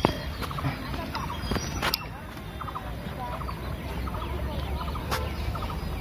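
Birds calling, a busy chorus of many short repeated calls, with a few sharp clicks.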